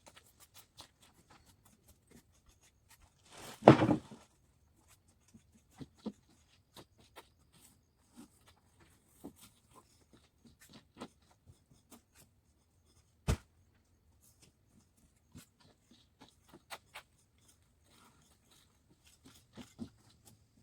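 Bags of cement and sand being handled and unloaded from a van, with scattered light knocks and rustles. A heavy thud comes about four seconds in, like a bag dropped down, and a single sharp knock comes a little past halfway.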